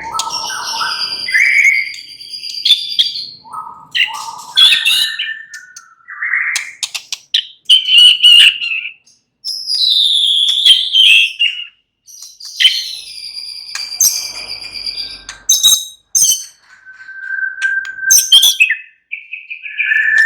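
White-rumped shama (murai batu) singing: a run of varied phrases of clear whistles that slide up and down, held notes and quick clicking chatters, with short pauses between phrases.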